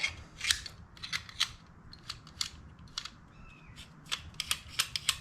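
Irregular sharp clicks and ticks of small metal parts being handled and worked on a '55 Deluxe heater control unit, about a dozen spread through a few seconds.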